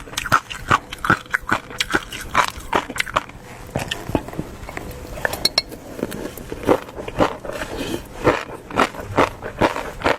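Close-miked eating sounds: wet chewing and biting with quick mouth smacks and clicks, several a second. They ease off for a couple of seconds midway, then pick up again.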